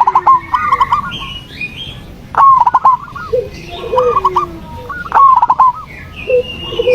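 Zebra dove (perkutut) song: three phrases of quick stuttering coos, about every two and a half seconds, with fainter high chirps from small birds between them.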